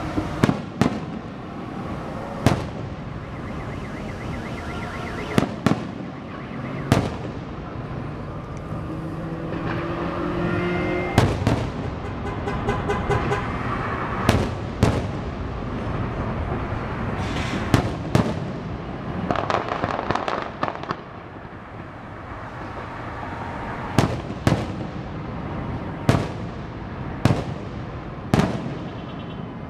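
Fireworks display: aerial shells bursting in sharp booms, a few seconds apart and sometimes two in quick succession, over a continuous rumble and crackle of the show.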